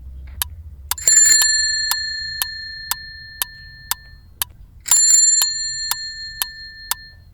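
Bicycle bell rung twice, about a second in and again about five seconds in, each ring a short rattle followed by a clear tone that fades away over a few seconds. A steady ticking, about two ticks a second, runs underneath.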